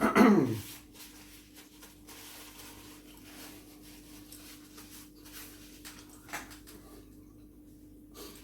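A man's loud appreciative vocal exclamation that slides down in pitch at the very start, then close-miked chewing and mouth noises from eating a chicken burger, faint clicks and breaths over a steady low electrical hum.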